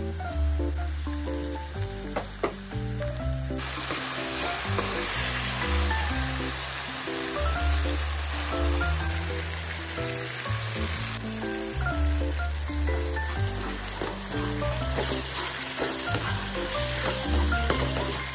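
Chopped onions, then a ginger-garlic-chilli-coriander paste and tomatoes, sizzling steadily in hot oil in an iron kadhai while a steel ladle stirs them. The sizzle grows louder about four seconds in. Background music plays underneath.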